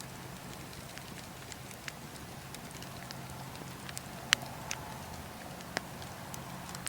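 Wood campfire burning, with logs crackling in scattered sharp pops over a steady low hiss. The loudest pop comes about four seconds in.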